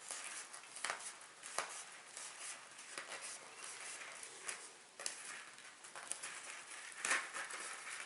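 Paper plates being handled and pressed together around the rim: light rustling with scattered taps and clicks, a louder rustle about seven seconds in.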